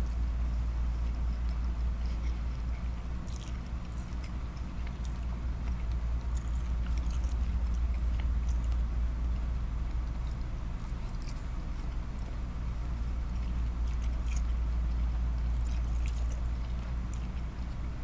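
Close-up chewing of shrimp and vegetables: scattered small wet mouth clicks and smacks over a steady low hum.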